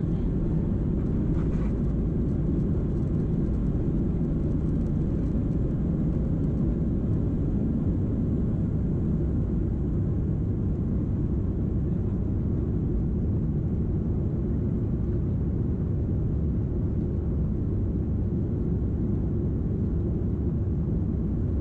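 Steady low rumble of a Boeing 737's engines and rushing air, heard from inside the passenger cabin.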